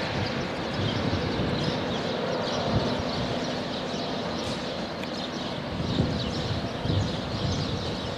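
Passenger train rolling away along the track: a steady rumble of wheels on rail, with a few low knocks.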